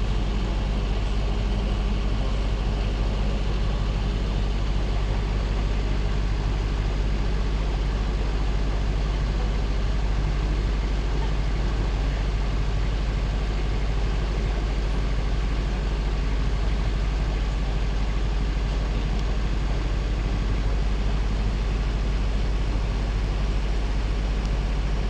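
River water rushing, a steady unbroken noise with a strong low rumble.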